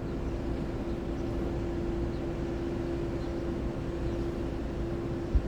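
A steady mechanical hum and low rumble with a constant held tone, and a single low thump near the end.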